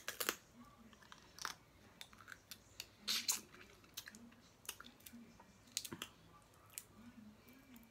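A person chewing snow crab meat, with irregular sharp clicks and crackles from the crab legs.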